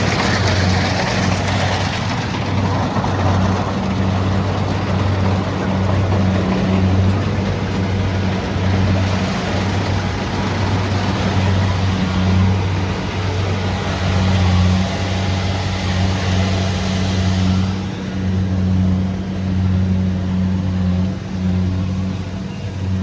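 Kubota DC70 Pro combine harvester working: a steady, loud engine drone with a hum that swells and eases every second or so, under a broad mechanical hiss that grows duller near the end.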